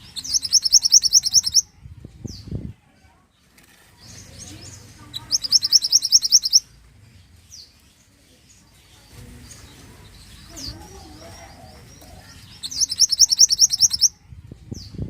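Mantenan bird singing: three bursts of rapid, evenly repeated high chirping notes, about eight a second and each burst lasting around a second and a half, with quieter single calls between the bursts.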